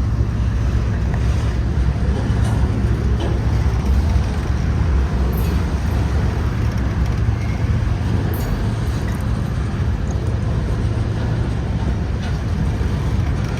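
Steady low rumble of a long BNSF freight train's cars rolling past at slow speed, with a few faint clicks over it.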